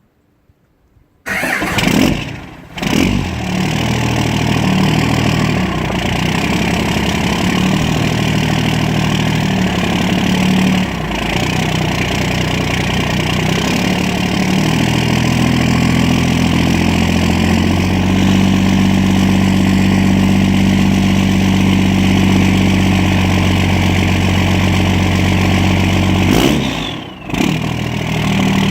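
Cold start of a 1998 12-valve Cummins diesel at about 10 degrees with the block heater plugged in. The engine catches suddenly about a second in, then idles at a shifting, uneven note that steadies later, with a brief dip near the end.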